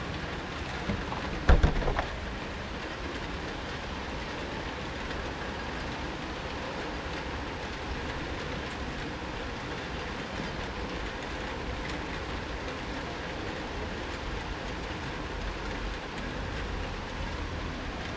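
Steady hiss of rain during a thunderstorm, with a brief cluster of sharp knocks about a second and a half in.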